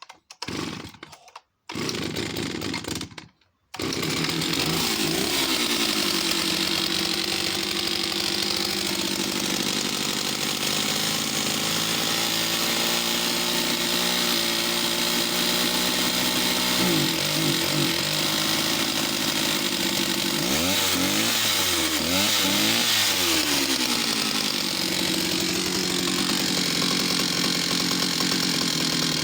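West German Stihl 041AV two-stroke chainsaw starting: two short bursts in the first few seconds, then it catches about four seconds in and keeps running. Its revs swing up and down several times, the running that the owner describes as going lean and then richening up.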